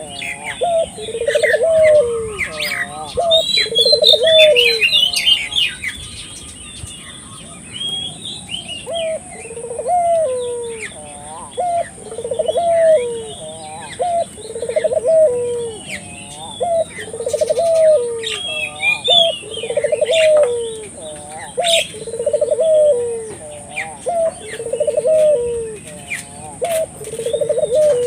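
Ringneck doves (burung puter) cooing over and over, one rolling coo about every two seconds, each opening with a quick stutter and sliding down at the end. Small birds chirp higher above the coos, most busily in the first few seconds and again a little after the middle.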